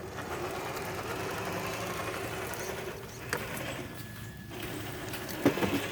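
Traxxas TRX-4 RC crawler's electric motor and geared drivetrain whirring as it drives, easing off briefly past the middle. A sharp knock near the end.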